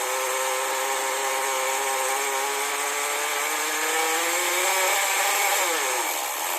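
Rebuilt .15 nitro engine of a 1/10 RC buggy running steadily during its test and break-in run, its pitch dropping about five and a half seconds in.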